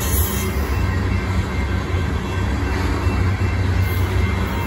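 Covered hopper cars of a freight train rolling past at steady speed: a steady, deep rumble of steel wheels on the rails.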